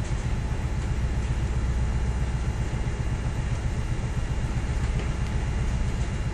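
Ship's engine and machinery drone aboard a dredging vessel at sea: a steady, unbroken low rumble with a faint hiss over it.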